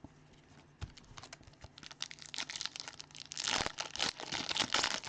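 Trading card pack wrappers being torn and crinkled, with light clicks and taps of cards being handled; the rustling swells twice in the second half.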